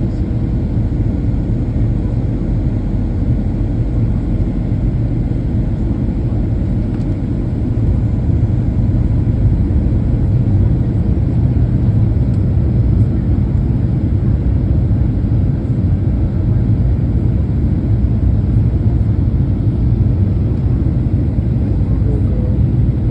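Steady low rumble of a Boeing 737's engines and airflow heard from inside the passenger cabin, growing a little louder about eight seconds in.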